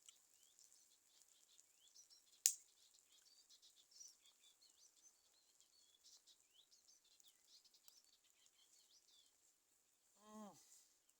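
Faint birds chirping in the background, broken by a single sharp click about two and a half seconds in and, near the end, a brief low sound that drops in pitch.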